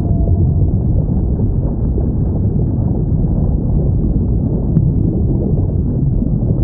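Underwater whale recording: a steady low rumble of sea noise with faint whale calls sliding in pitch, and a short click about five seconds in.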